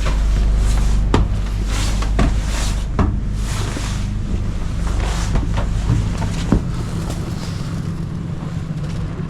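Boat motor running steadily while under way, a deep even rumble, with gusts of wind buffeting the microphone.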